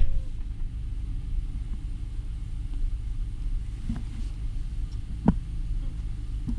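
Steady low road rumble of a car driving, heard from inside the cabin, with a couple of faint short clicks.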